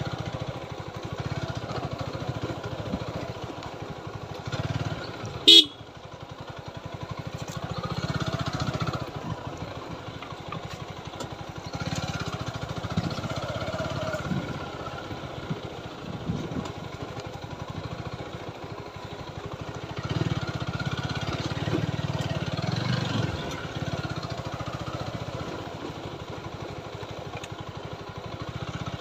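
TVS Apache motorcycle engine running as the bike rides along, rising and falling with the throttle, with one short, loud horn beep about five and a half seconds in.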